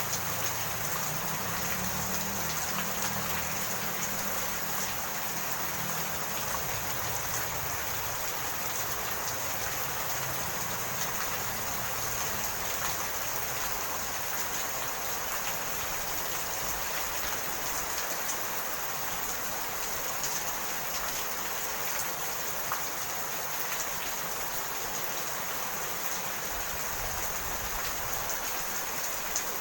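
Steady rain falling, an even hiss with scattered faint drop ticks. A low rumble underneath fades out over the first few seconds.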